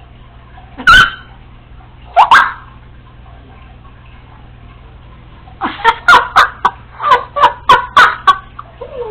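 Congo African grey parrot calling: one short call about a second in, and a rising call soon after. Then, after a pause, a quick run of about a dozen short chattering notes, about four a second, lasting nearly three seconds.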